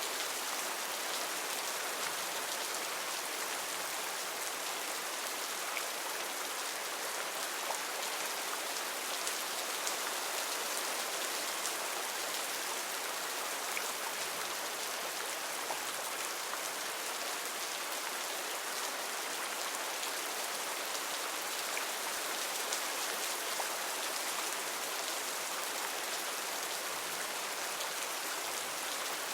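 Heavy rain falling steadily in a rainforest, an even hiss of downpour with scattered sharper drop ticks.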